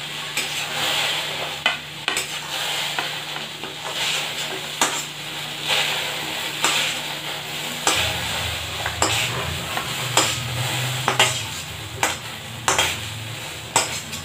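Taro pieces sizzling in hot mustard oil in a kadhai while a spatula scrapes through them and scoops them out. The spatula knocks against the pan and plate in sharp clicks, about one a second.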